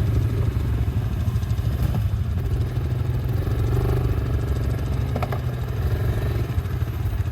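ATV engine running under way on a trail, a steady low engine drone with a fine rapid pulse.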